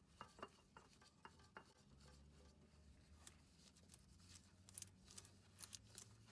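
Near silence: a scattering of faint clicks and light taps, several close together near the end, over a low steady hum.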